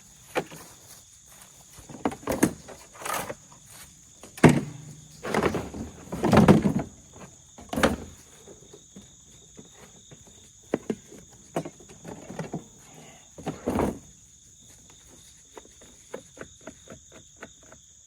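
Rummaging and handling noise: irregular knocks, thumps and rustles as things are moved about and set down, with a few quick clicks near the end. Insects sing steadily in the background.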